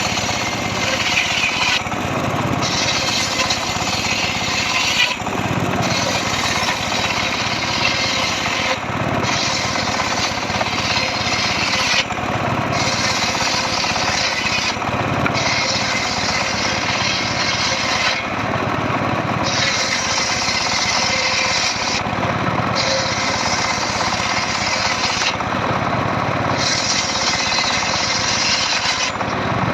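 An engine-driven saw runs steadily under load, cutting through dry mahogany. Its tone shifts briefly about every three to four seconds.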